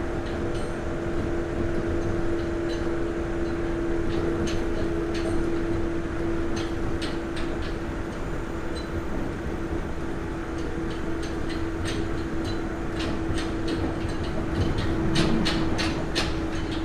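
Armature-chopper-controlled Nagoya Municipal Subway 3000 series electric train running, heard from inside the car: low rumble with a steady tone held throughout. Scattered sharp clicks and rattles come more often near the end.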